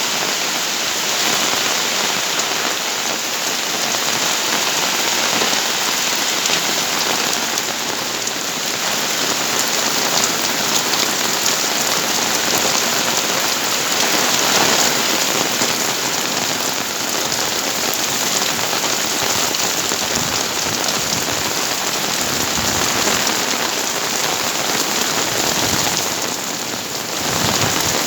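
Heavy rain pouring down steadily as a dense, even hiss, easing briefly for a moment near the end.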